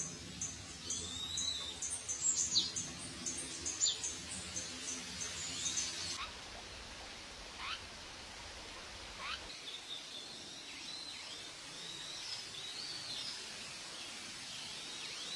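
Small birds chirping: a rapid run of short high chirps, about four a second, for the first six seconds, then a few sharp calls sliding downward and softer arched chirps over faint outdoor background noise.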